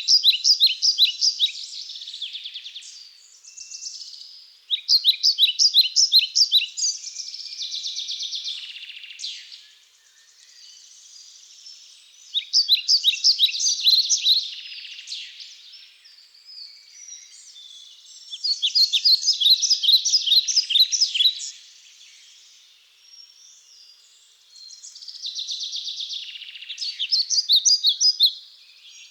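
A songbird singing, repeating a high-pitched phrase of rapid chirping notes five times, roughly every six seconds, with fainter chirps in between.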